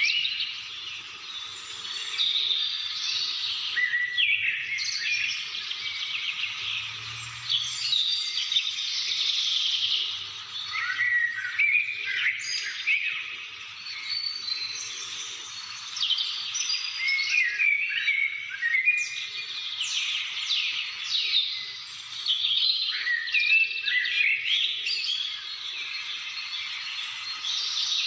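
Many birds chirping and calling at once: a dense chorus of overlapping short chirps and trills, rising and falling in loudness every few seconds.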